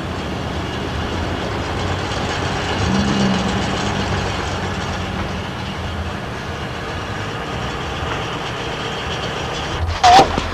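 Street traffic: a motor vehicle's engine running under steady outdoor noise, its hum coming up about three seconds in. A brief loud sound comes near the end.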